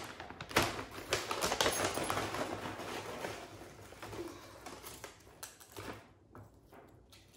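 Tortilla chips crushed by hand over a bowl of soup: a long run of dry crackling and snapping that thins out and fades about six seconds in.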